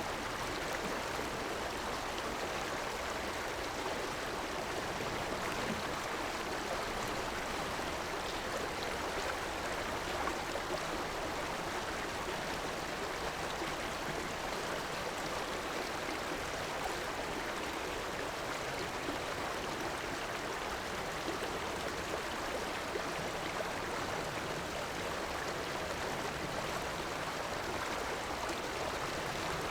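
River water running steadily over rocks, an even rushing and gurgling with no breaks.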